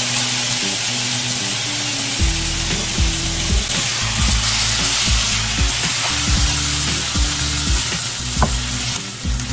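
Sliced mushrooms sizzling in a hot skillet while a spatula stirs them. The sizzle drops away near the end as the pan is tipped out.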